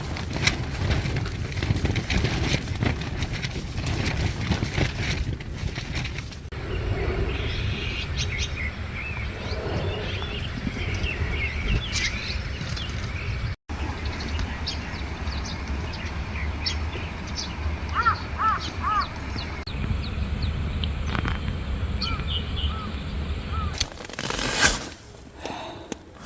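Steady rain with wind rumbling underneath and raindrops tapping on a tarp, while birds call in short chirps now and then. A brief loud rustle comes near the end.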